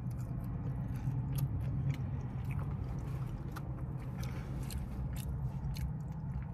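Close-up chewing and mouth sounds of someone eating fried fast food (wings and fries), with many scattered small crunchy clicks and smacks. A steady low hum runs underneath.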